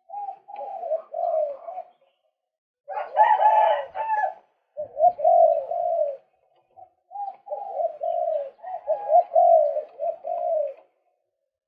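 Male white-breasted waterhen calling: runs of rapidly repeated low notes in four phrases broken by short silences, the phrase about three seconds in the loudest.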